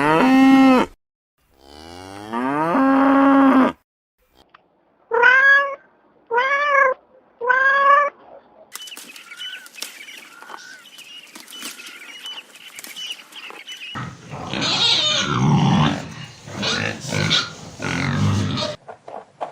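A cow mooing twice in long calls, then a cat meowing three times in short calls, followed by fainter chirping and then a louder, rough animal sound.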